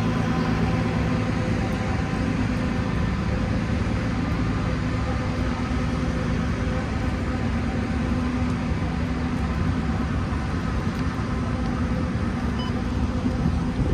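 City street traffic: a steady engine hum from a nearby vehicle over the general noise of the road, with the hum fading somewhat after the middle.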